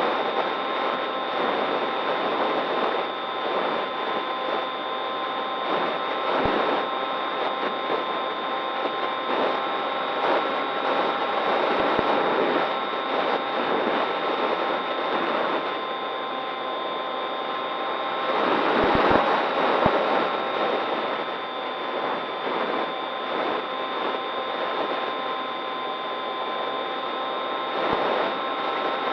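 Electric motor and propeller of an RC model plane running at a steady whine in flight, with wind rushing over an on-board camera's microphone and swelling more strongly a little past the middle.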